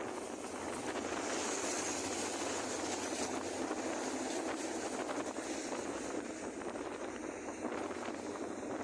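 Steady engine drone with wind rushing over the microphone, as from a vehicle or boat under way.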